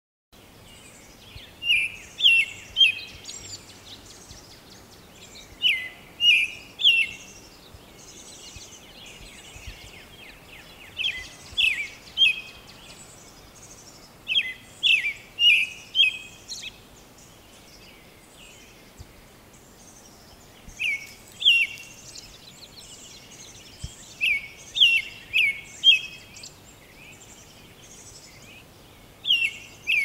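American robin singing: short phrases of three or four clear, whistled notes, repeated every four to five seconds, over faint high chirping.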